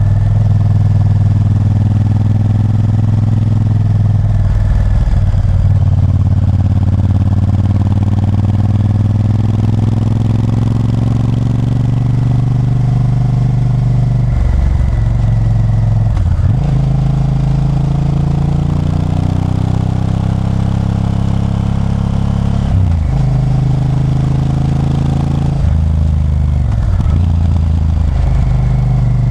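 Honda Varadero 1000's V-twin engine running while riding, revs rising and falling, with the engine note breaking and changing pitch about four times as the gears change.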